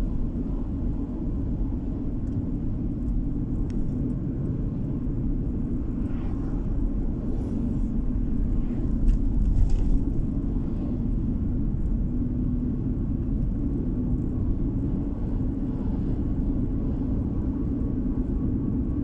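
Car road noise heard from inside the cabin while driving: a steady low rumble of tyres and engine, swelling louder for a moment about halfway through.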